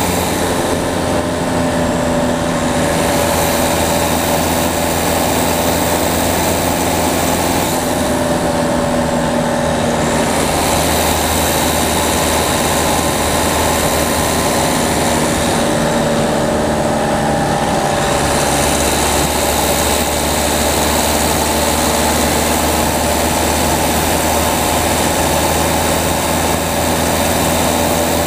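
Peugeot 208's diesel engine running under way, heard from outside the car over a steady hiss of road and wind noise. Its note shifts in pitch three times, each time with a brief drop in the hiss.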